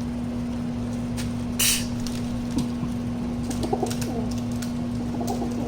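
Rock dove (domestic pigeon) cooing softly a few times, over a steady low hum, with a brief rustle under two seconds in.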